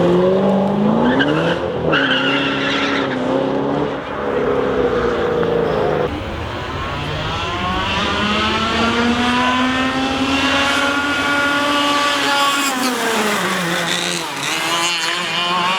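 Sports car engines revving and accelerating. The pitch rises and falls, and the sound changes abruptly about six seconds in, then climbs slowly and falls away again near the end.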